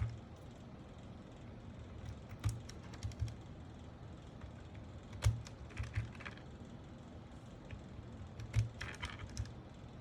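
Scattered sharp plastic clicks and clacks of mechanical keyboard parts being handled and pressed, in a few small irregular clusters.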